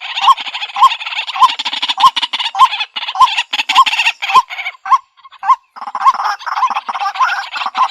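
White-breasted waterhen calling: a short note repeated about twice a second over a dense, raspy chatter. The chatter drops out briefly around five seconds in, then resumes. This is a lure call recording used to draw waterhens in.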